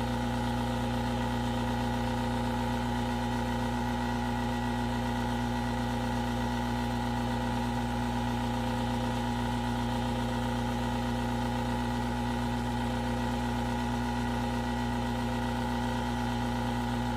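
Hot-air reflow station's blower running steadily at full airflow, a constant drone with several held tones, as it heats a phone screen to soften the adhesive holding it on.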